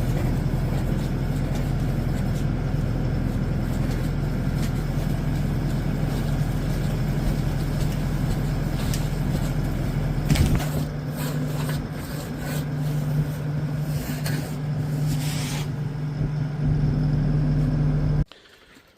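A motor running steadily with a low hum. A few sharp knocks come about ten seconds in, and the sound cuts off abruptly near the end.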